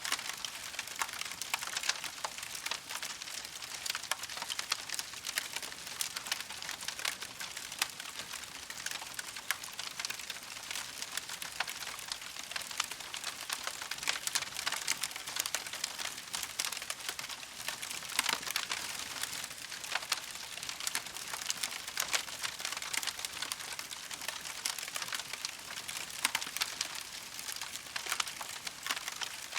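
Campfire crackling: a dense, irregular stream of small pops and snaps over a soft steady hiss.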